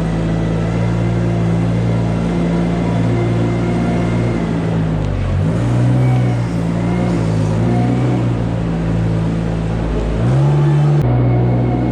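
An engine running steadily, its pitch shifting about five seconds in and again near the end.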